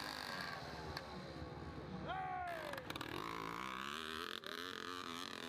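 Motorcycle engine revving; its pitch drops sharply about two seconds in, then it runs on at a wavering pitch.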